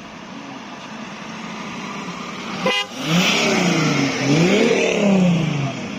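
A car engine revving, its pitch rising and falling about twice, after a stretch of engine noise that builds steadily in the first half.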